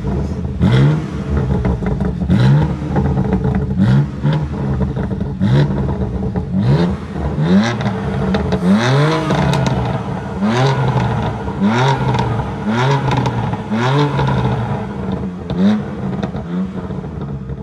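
Performance car engine revved over and over in short, sharp throttle blips, about one a second, with exhaust crackles and pops between the blips.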